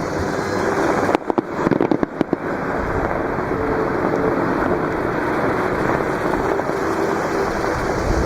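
Fireworks bursting with a quick cluster of sharp crackles between about one and two and a half seconds in, over steady surf and wind noise.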